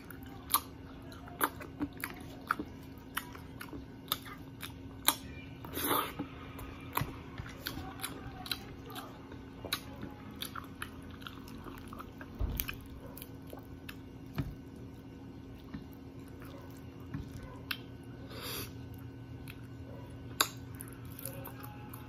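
Close-miked eating by hand of fried tilapia with rice: chewing with many sharp, irregular clicks, and two longer noisy bursts, about six seconds in and again around eighteen seconds. A faint steady hum runs underneath.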